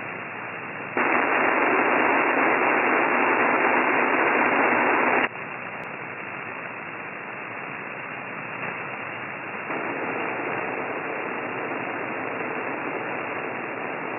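Radio receiver hiss from the Q900's transmitted signal picked up on an SDR, limited to a narrow voice-radio band. The hiss jumps loud about a second in and drops back sharply after about five seconds. A faint steady hum tone joins it near ten seconds.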